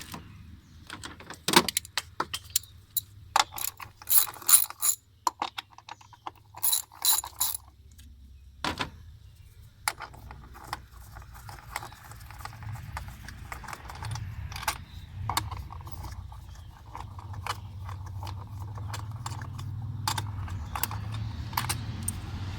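Clicks, snaps and rattling of a plastic engine-bay cover and its fasteners being worked loose. A few loud sharp snaps come in the first half, then a steadier run of small clicks and clatter.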